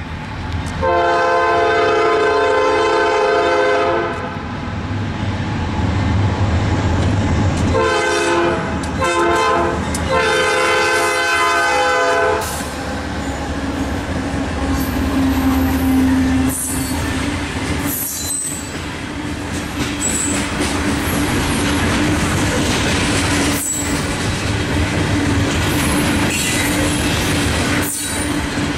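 Air horn of a Norfolk Southern GE locomotive leading a coal train, sounding the grade-crossing signal: a long blast, then after a pause two short blasts and a long one. The GE diesel locomotives then pass close by, and coal hopper cars roll past with a steady wheel squeal and sharp clicks and clanks over the rail joints.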